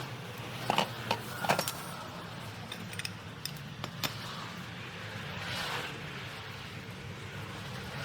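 Metal clinks and knocks from tools and parts being handled: a few sharp strikes close together in the first two seconds, then scattered lighter ticks, over a low steady hum.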